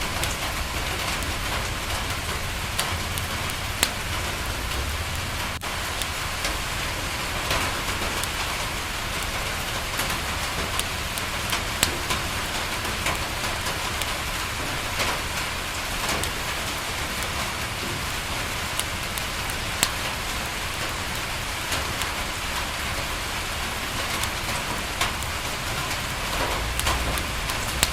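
Steady rain falling on a window, with scattered sharp crackles and pops from a wood fire and a low rumble underneath.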